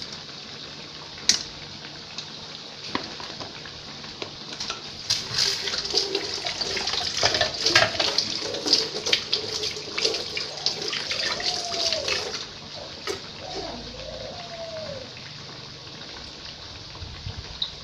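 Batter-coated breadfruit pieces deep-frying in a wok of hot oil: a steady sizzle with crackles and pops, louder from about five seconds in until about twelve.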